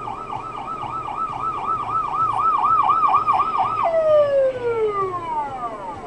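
Electronic emergency-vehicle siren in a fast yelp, warbling up and down about four times a second, then dropping into a long falling glide near the end as it winds down.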